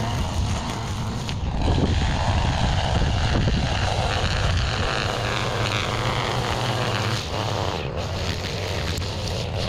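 A small engine running steadily with a constant hum and some rough noise above it.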